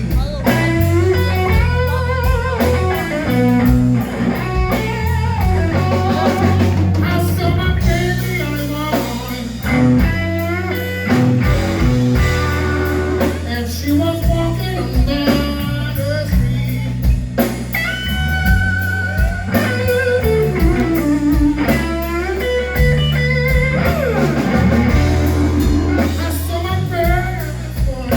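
Live electric blues band playing a slow blues: lead electric guitar with bent, wavering notes over bass and drums.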